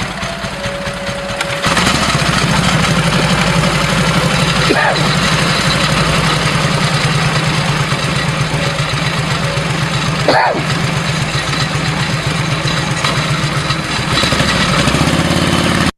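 1946 Harley-Davidson 1200 cc 45-degree V-twin motorcycle engine running with an even pulsing beat. It gets louder about two seconds in and the revs climb near the end as the bike pulls away, then the sound cuts off abruptly.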